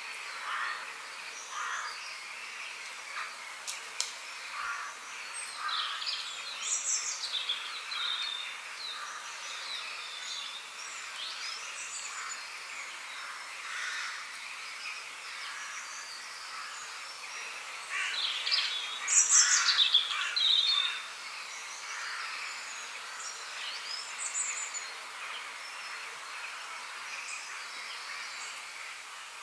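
Several wild birds chirping and singing over a faint steady outdoor hiss, with a louder burst of song about two-thirds of the way through.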